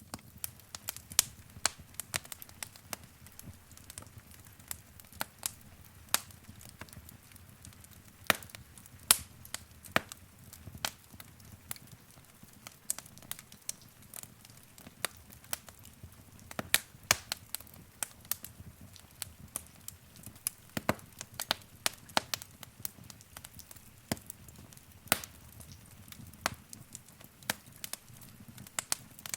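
Wood fire crackling in a fireplace: irregular sharp pops and snaps, several a second, over a soft low rumble of flame.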